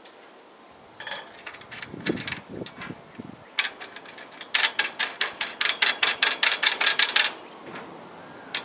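A few scattered clicks and knocks, then a fast, even run of sharp mechanical clicks, about five a second, for nearly three seconds.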